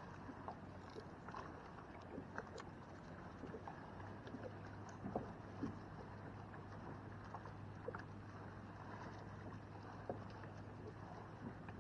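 Faint water lapping and small knocks against a kayak's hull, with a steady low hum that grows a little stronger about four seconds in.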